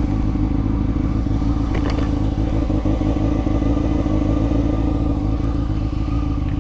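Honda CBR600F3's inline-four engine idling steadily. There is a brief click about two seconds in.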